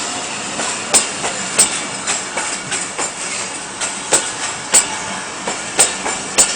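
Rohi Express passenger train rolling out of the station over a steady rumble. Its wheels clack over the rail joints, often in pairs of sharp clicks about half a second apart.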